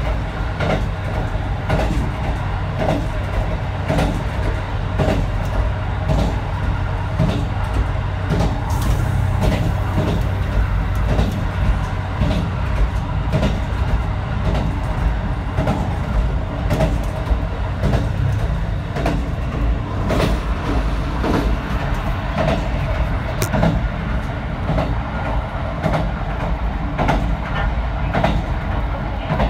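Diesel railcar running at speed, heard from on board: a steady low engine hum with wheels clicking over the rail joints.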